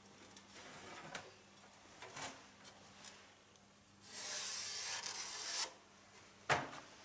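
Light workshop handling noises on a steel car bonnet panel: a few small clicks and taps, a rasping scrape lasting about a second and a half midway, and a sharp knock near the end.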